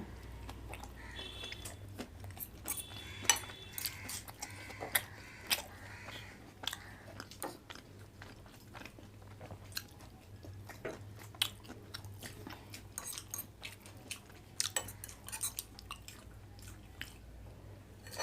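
Close-up chewing and biting of people eating chicken gravy momos: irregular wet smacks and clicks of mouths at work, over a steady low hum.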